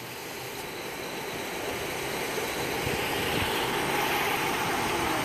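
A car engine idling, a steady hum that grows gradually louder.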